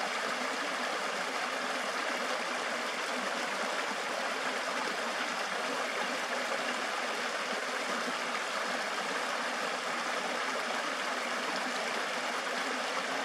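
Creek water rushing steadily, an even, unbroken flow.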